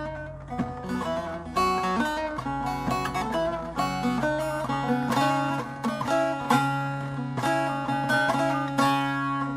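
Background music: a plucked acoustic guitar playing a quick run of notes over a steady low bass note.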